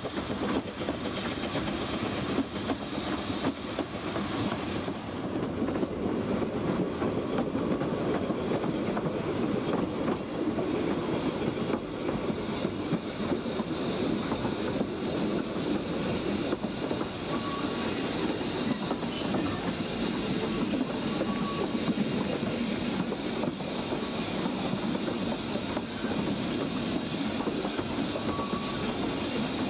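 Narrow gauge steam train's coaches running along the track, their wheels on the rails making a steady rolling noise, heard first from beside the line as the coaches pass and then, from about five seconds in, from aboard the train.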